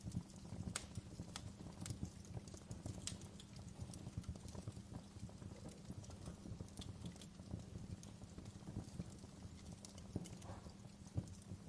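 Wood fire burning in a fireplace, crackling with irregular small pops and a few sharper snaps over a low, steady rumble of flame.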